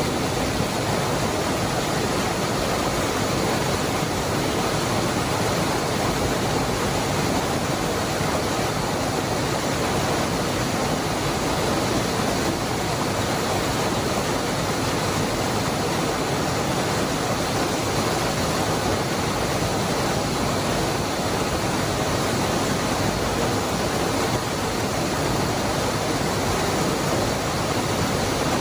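Waterfall: the steady rush of falling water, an even, unbroken hiss with no changes.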